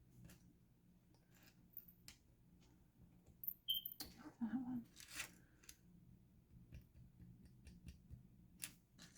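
Faint, scattered clicks and light rattles of plastic LEGO bricks being picked up and sifted through by hand, with a short busier cluster of clicks around the middle.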